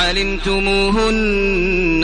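A man's solo voice chanting Quranic recitation in melodic tajweed style, holding long drawn-out notes that glide slowly in pitch.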